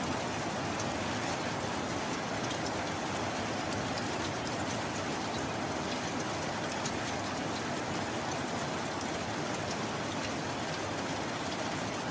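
Steady heavy rain falling without let-up, with scattered crisp drop ticks over a dense wash of noise; no thunder.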